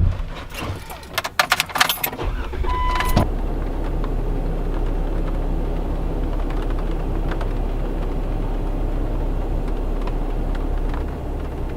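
Keys jangling and a few clicks, a short beep about three seconds in, then a car engine running steadily with a low hum that fades near the end.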